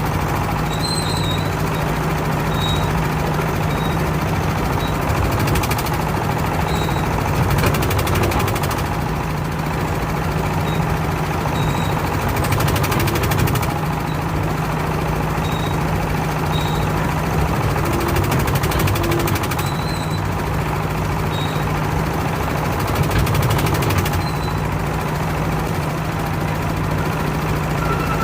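A boat engine running steadily with a constant low hum, its level swelling slightly now and then.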